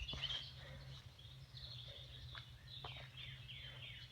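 Birds chirping: a run of short, quick notes that each slide downward, with a low steady hum underneath.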